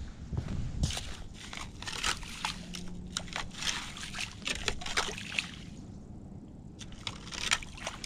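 Slush and ice chips being scooped out of an ice-fishing hole with an ice skimmer: water sloshing and trickling, broken by irregular crunching scrapes, with a short pause about six seconds in.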